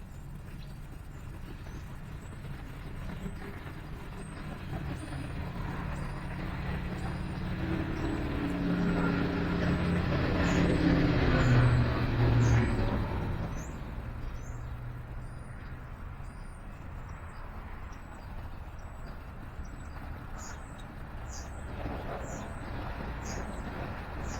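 A motor vehicle driving past, growing louder to a peak about halfway through, then fading, its engine note dropping in pitch as it goes by. Small birds chirp repeatedly throughout, in short high notes.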